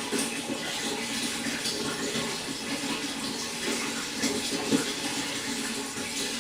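Water running and splashing steadily into a pond, a continuous trickle with small irregular splashes.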